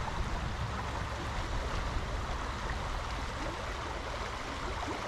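Small stream rushing steadily over a splashy riffle.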